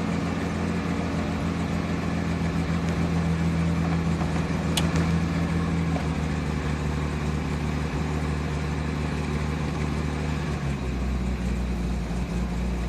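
A 1969 Jaguar E-Type's 4.2-litre straight-six idling steadily just after a cold start. The idle note steps down about eleven seconds in, with a single light click around the middle.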